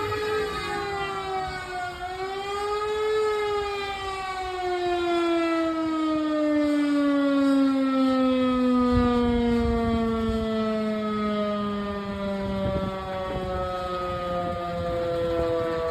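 Electromechanical fire siren winding down: one pitched wail that falls, swells back up briefly about two seconds in, then sinks slowly and steadily in pitch.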